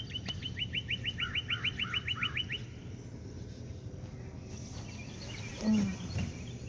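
A songbird singing a fast trill of evenly spaced, down-slurred notes, about eight a second, which stops about two and a half seconds in. Fainter scattered chirps follow, and a short low call sounds near the end.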